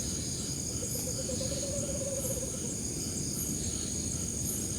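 Night insects, crickets, trilling steadily: a high continuous buzz with a brighter chirp about once a second, over a low rumbling noise. A faint hum rises and fades in the first half.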